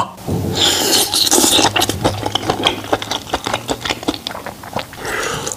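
Biting into a grilled chicken skewer and chewing it close to the microphone: a dense run of crackly clicks and smacks.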